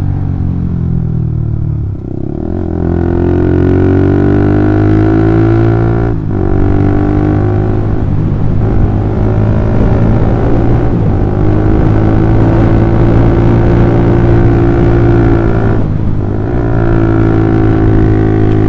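Honda CB150R's overbored single-cylinder engine through a DOS Muffler full-system exhaust with a long 30 cm silencer, under way. The note falls as the throttle eases for the first two seconds, then climbs and holds steady, with brief dips about six seconds in and near sixteen seconds.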